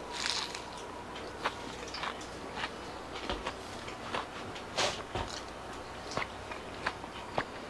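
A person biting into a sandwich and chewing it: a soft crunch at the first bite, then irregular small crunches and mouth clicks.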